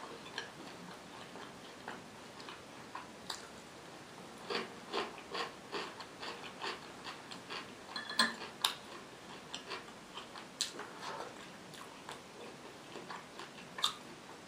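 Close-miked chewing and wet mouth sounds while eating: irregular soft clicks and smacks, a few a second.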